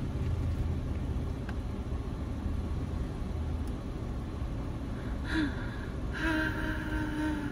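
Low steady rumble of a car idling, heard from inside the cabin. Near the end a woman gives a drawn-out wordless vocal exclamation, in two parts.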